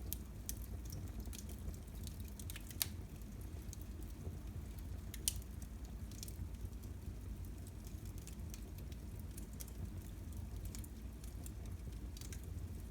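Fire in a fireplace crackling: irregular small pops and snaps over a low steady rumble, with two louder pops about three and five seconds in.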